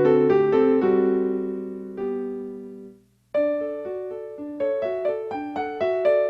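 Solo piano playing. A phrase closes on a held chord that fades out to a short gap about three seconds in, then a new passage of quick, evenly repeated notes begins.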